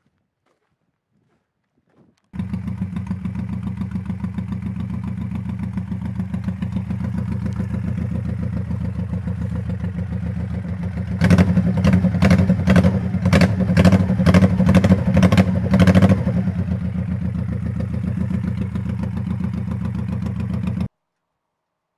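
2001 Honda Shadow Spirit 1100's V-twin engine running at idle. For about five seconds in the middle it gets louder, with a regular pulse about twice a second, then settles back to a steady idle.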